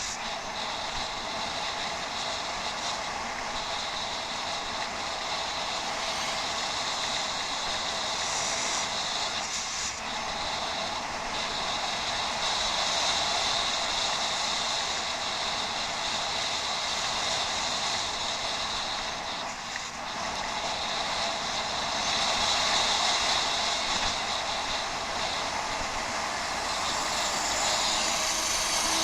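Steady rushing noise of a bicycle ride, tyres rolling and wind over the helmet-mounted camera, rising and falling slightly in level.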